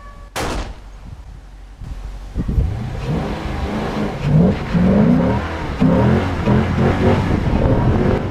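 A sharp crack just after the start, then a V8 car accelerating hard, the engine revving up in repeated rising surges as it pulls away sideways.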